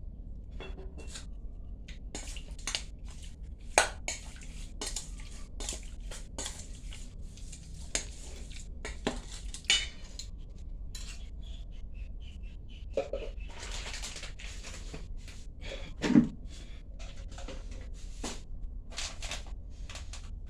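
Dishes and utensils clinking and scraping in irregular small knocks, with a brief scraping stretch and one heavier knock later on.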